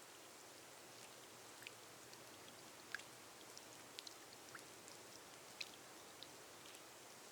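Rain on a glass roof, faint: a steady soft hiss with scattered single drops ticking sharply, a few each second.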